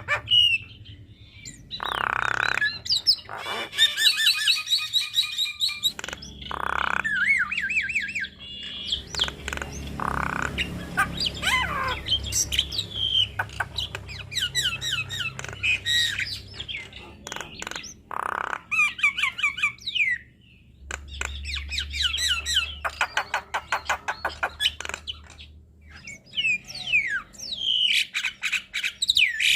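Javan myna singing a long, varied song of harsh squawks, gliding whistles and fast runs of repeated chattering notes.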